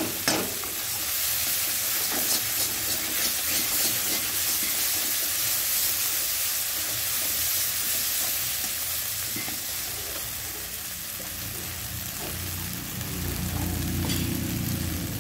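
Mushrooms in spice paste sizzling in a metal kadai while being stirred, the spatula scraping and clicking against the pan, mostly in the first few seconds. A low hum comes in near the end.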